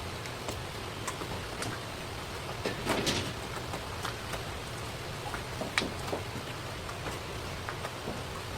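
Knife and hands working a rock bream on a cutting board: scattered light clicks and taps, a short scraping cluster about three seconds in and a sharp click near six seconds, over a steady hiss.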